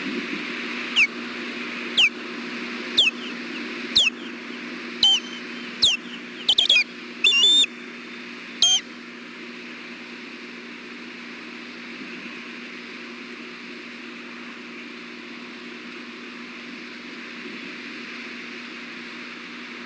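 Osprey alert calls at the nest: a series of loud, sharp whistles that drop in pitch, about one a second, the later ones doubled and more broken, stopping about nine seconds in. A steady low hum and windy hiss run underneath.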